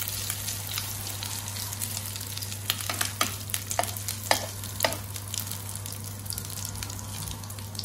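Rice-and-vegetable kebab patties sizzling as they shallow-fry in about two tablespoons of oil in a frying pan. A metal spoon clicks against the pan several times around the middle as a new patty is pressed into shape.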